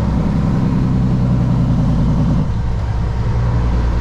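2006 Kenworth W900 semi truck's diesel engine running on the road, heard from inside the cab with road noise. Its deep note is strong at first and drops back about two and a half seconds in.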